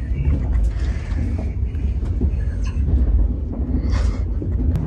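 KTX high-speed train running at about 105 km/h, heard from inside the passenger cabin as a steady low rumble, with a brief hiss near the end.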